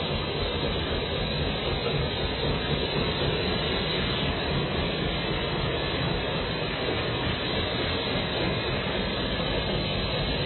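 A machine running steadily with an even, unbroken noise.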